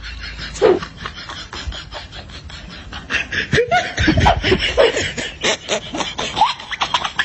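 People laughing in quick repeated bursts, with a few short rising squeals.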